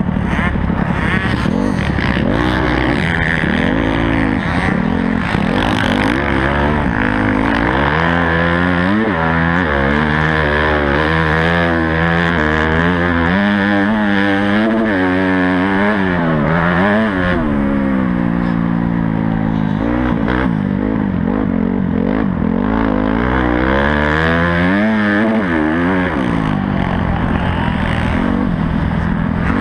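Honda CRF250 dirt bike's four-stroke single-cylinder engine being ridden hard on a motocross track. Its pitch climbs and drops over and over, every second or two, with throttle and gear changes.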